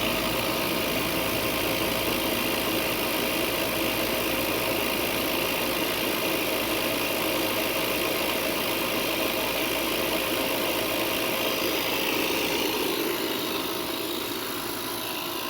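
Refrigerant recovery machine running steadily, drawing the remaining refrigerant out of the old air-conditioning system after pump-down. It eases off slightly near the end.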